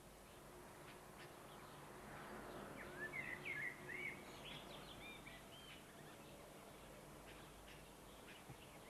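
Near-silent outdoor background with a low steady hum, and a brief run of faint bird chirps about three to four seconds in.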